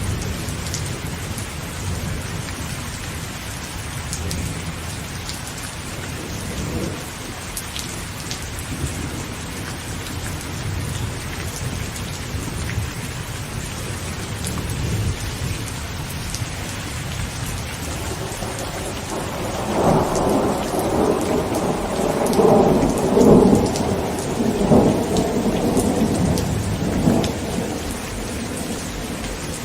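Heavy rain falling on a tent, with scattered drop ticks over a steady low thunder rumble. About two-thirds of the way in, a louder roll of thunder swells and rumbles for several seconds, then eases off.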